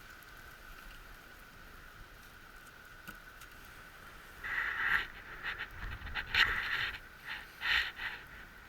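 Campfire that cannot catch properly, hissing and crackling in irregular bursts from about halfway in.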